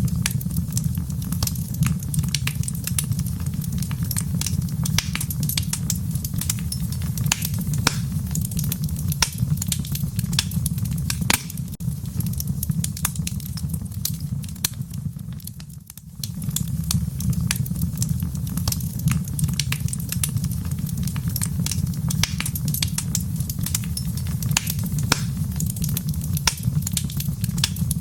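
Wood fire in a fireplace crackling: dense, irregular pops and snaps over a steady low rumble of flame. It dips briefly about halfway through.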